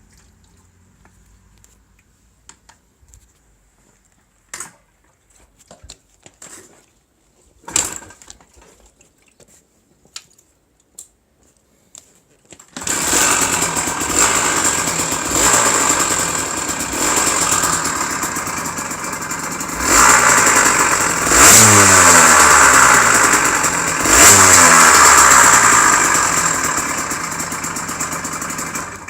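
Kawasaki KDX125SR's two-stroke single-cylinder engine on its first start after a top-end rebuild: a few scattered knocks, then it catches about 13 seconds in and runs, revved up and back down about three times in the second half.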